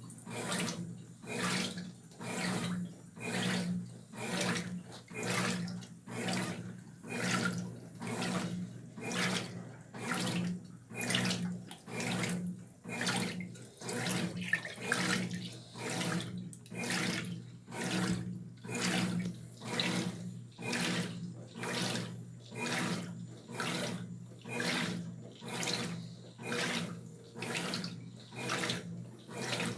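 Brastemp Tira Manchas Pro 12 kg washing machine agitating a load: water and clothes slosh in even surges, a little more than one a second, over a steady motor hum.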